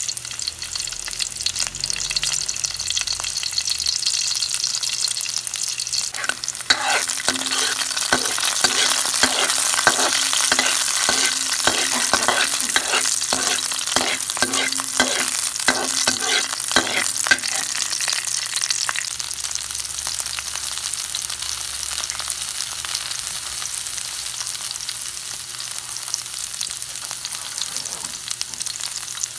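Sliced onion and garlic sizzling in hot oil in a pan. About six seconds in, a spatula starts stirring them, scraping across the pan in quick repeated strokes for about ten seconds; after that the sizzle carries on alone.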